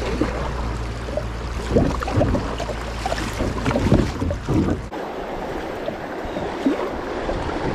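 Rushing river water around a kayak running a rocky rapid, with a run of sharp splashes and knocks between about two and five seconds in. A low rumble under the water cuts off suddenly about five seconds in.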